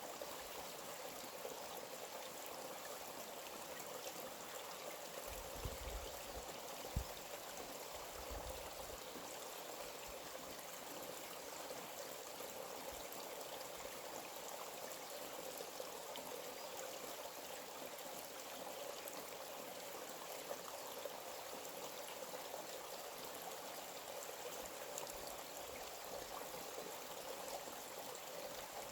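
Forest stream water flowing steadily, an even rushing hiss. A brief low rumble comes about six seconds in and again about eight seconds in, and a single sharp knock comes about seven seconds in.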